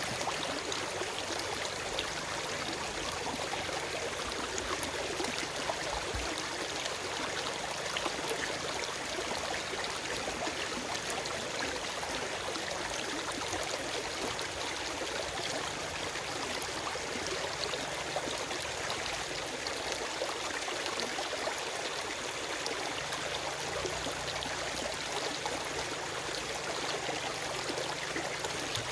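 Forest stream running over rocks, a steady rush of flowing water with fine splashing and no birds.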